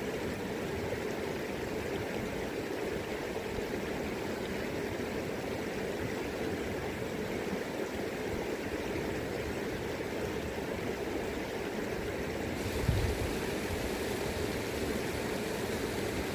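River current running steadily as an even rush of water, with a brief low thump about thirteen seconds in.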